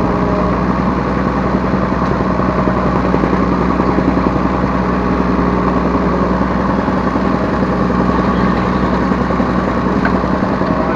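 Yanmar B3 Sigma 3-tonne mini excavator's diesel engine running steadily with a constant hum.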